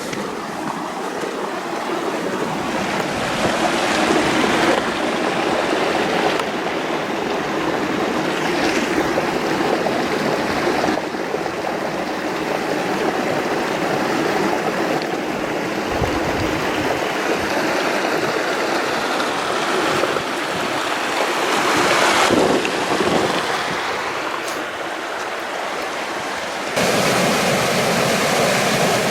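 Steady rushing water of a mountain stream or waterfall, with the level shifting abruptly a few times.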